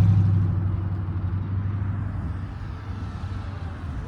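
A car's engine running with a low rumble as it drives away, fading over the first second or two and settling to a quieter low rumble.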